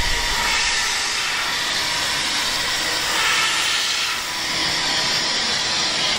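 A train giving off a steady, loud hiss, with a faint steady whine underneath. The hiss swells about three seconds in and again near the end.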